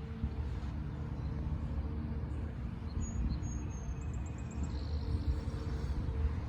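A steady low rumble with a droning hum. A few faint, high chirps from small birds come about three to five seconds in.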